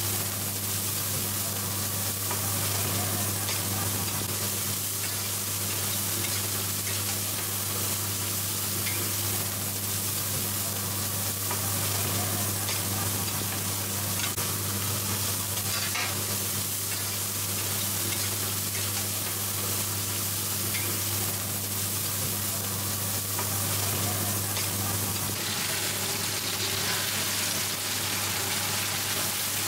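Egg batter with mussels and shrimp sizzling steadily in hot oil on a wide flat griddle pan, with occasional light scrapes and taps of a metal spatula. A steady low hum sits underneath.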